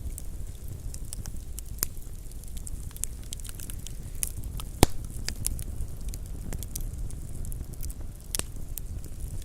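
Campfire burning with irregular crackles and pops over a low steady rumble; one sharp, louder pop about halfway through.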